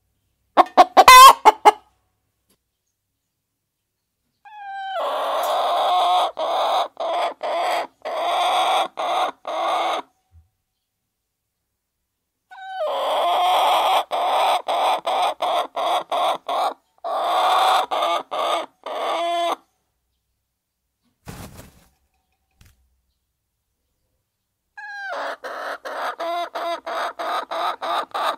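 Flock of hens clucking and calling while they feed, in three bursts of several seconds each with dead silence between them, and a short loud call near the start.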